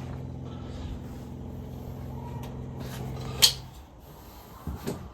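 A steady low electrical hum that cuts off with a sharp click about three and a half seconds in, followed by a couple of faint knocks.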